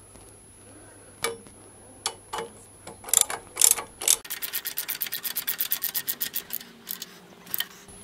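Socket ratchet clicking as a bolt on the motorcycle's engine bars is wound in. A few separate clicks and knocks come first, then a fast, even run of clicks, about seven a second, for nearly three seconds from the middle.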